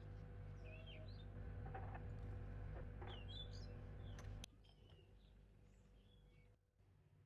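Faint chirping of small birds, repeated short calls throughout, over a steady low hum that cuts off about four and a half seconds in, with a few light clicks before it stops.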